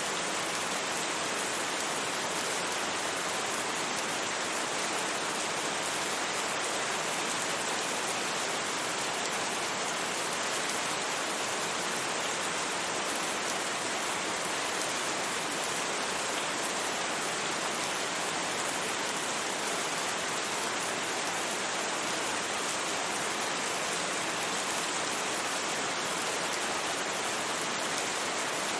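Steady rain, an even hiss that keeps the same level throughout, with no thunder and no separate drops standing out.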